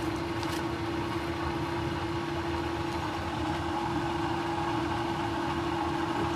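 Electric water pump running, draining groundwater from the dig: a steady, even motor hum.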